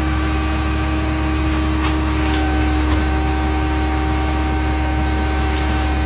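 A motor running steadily with a constant low hum and a few held steady tones above it.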